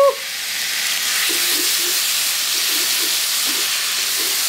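Udon noodles and peanut satay sauce sizzling in a hot frying pan as they are tossed with chopsticks: a steady frying hiss.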